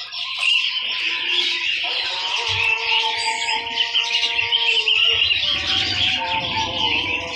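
Many caged songbirds chirping and twittering at once, a dense, continuous chorus, with background music holding steady notes underneath.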